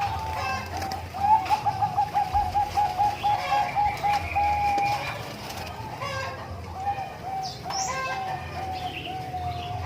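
Zebra dove (Bangkok-type perkutut) cooing: a long run of rapid, evenly repeated notes from about a second in to five seconds, then a second run from about six and a half seconds to the end.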